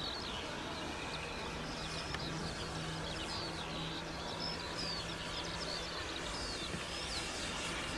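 Small birds singing outdoors, with many short chirping notes, over a steady background and a faint, steady low hum.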